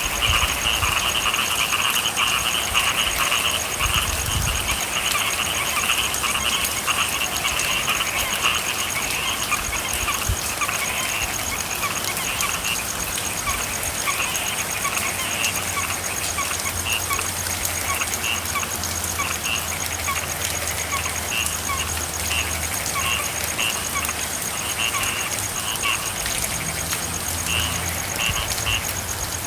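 A chorus of frogs calling in short repeated croaks over steady rain. A low steady hum comes in about halfway through.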